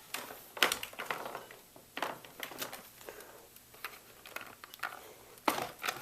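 Hard plastic clicks and knocks as the Shark Rotator vacuum's dust bin is handled and opened to show it is empty. Three sharper knocks, about half a second, two seconds and five and a half seconds in, with lighter rattling between them.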